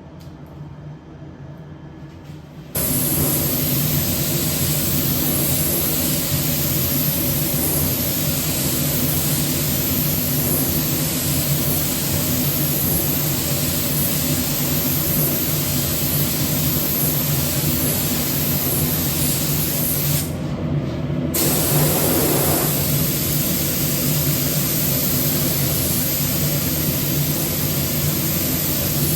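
Paint spray gun spraying 2K acrylic paint with a steady hiss of compressed air over a low machine hum. It starts suddenly about three seconds in and stops for about a second around twenty seconds in before resuming.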